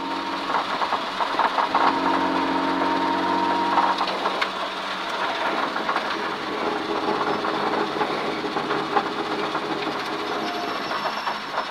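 Rally car's engine running steadily, heard from inside the cabin, over a hiss of road noise.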